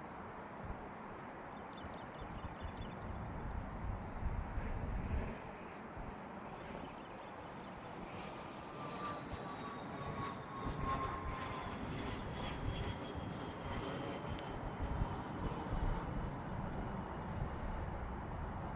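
Airplane flying over: a steady, distant engine rumble, with a faint whine that falls slowly in pitch through the middle.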